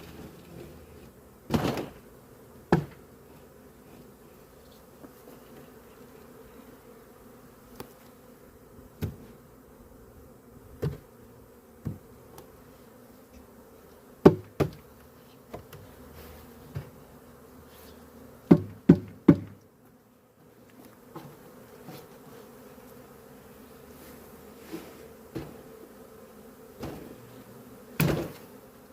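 A swarm of agitated honeybees buzzing steadily around the hive, broken by irregular sharp knocks and thumps of the wooden hive boxes being handled, including a quick run of three.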